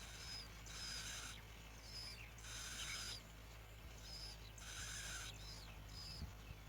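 Bar-winged prinia nestlings begging in the nest: three harsh, hissing rasps about two seconds apart, with short thin high chirps between them.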